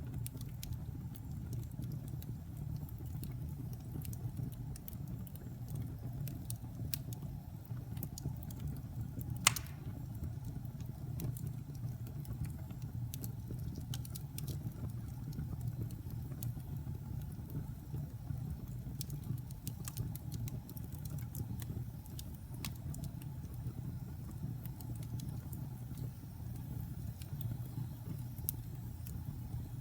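Wood fire burning in a fireplace: a steady low rumble with scattered small crackles and one sharper pop about nine and a half seconds in.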